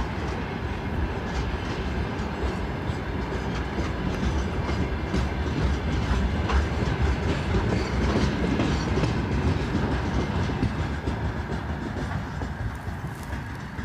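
Freight train wagons rolling past, wheels clicking over rail joints with a steady rumble, easing off near the end.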